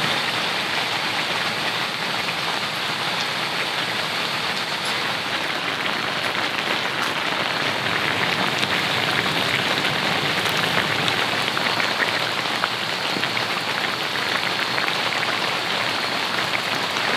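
Steady rain falling on the tent, an even hiss with faint scattered drop ticks.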